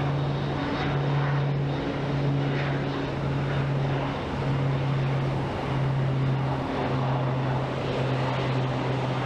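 Aircraft engines running with a steady low drone that dips briefly about once a second, over a wash of engine noise.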